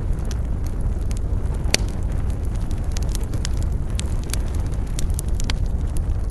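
Wood fire in a fireplace crackling, with irregular sharp pops and snaps, the loudest about two seconds in, over a steady low rumble.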